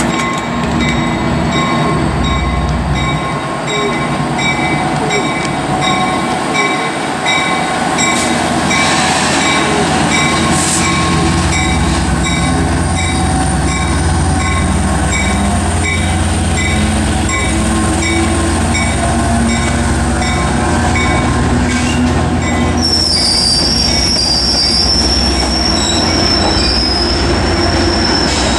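Metrolink diesel locomotive and its bilevel coaches rolling slowly past, the engine rumbling steadily while a bell rings in an even repeating beat. In the last several seconds the wheels squeal high against the rails.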